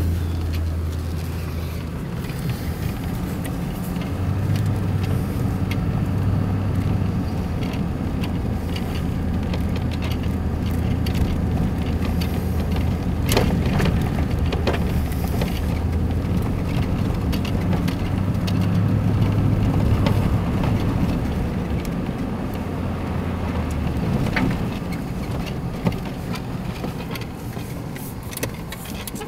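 Car driving, a steady low engine and road drone with scattered small clicks and knocks; the low drone drops away about five seconds before the end.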